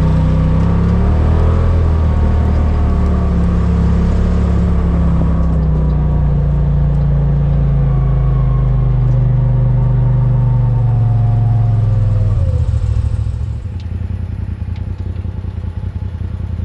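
Vehicle engine picking up speed, its pitch rising over the first second or so, then running steadily under load. About thirteen seconds in it eases off to a lower, quieter note.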